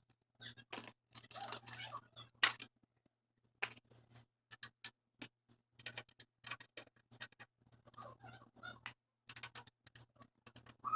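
Irregular small clicks and taps of hard parts being handled, typical of work on an old desktop PC case.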